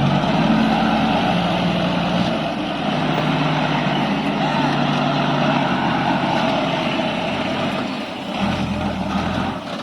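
Dump truck engine running steadily, its note shifting slightly about eight seconds in.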